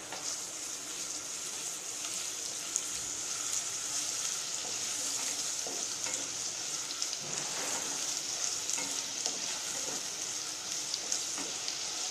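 Chopped ginger, garlic, green chilli and mint sizzling in hot oil in a nonstick kadhai while a wooden spatula stirs them: a steady high hiss flecked with small crackles.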